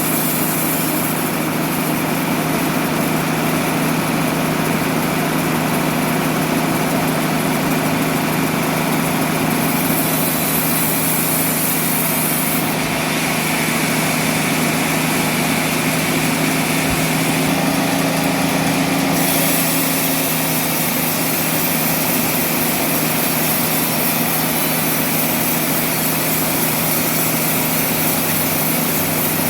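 Sawmill machinery running with a steady, even engine-like drone.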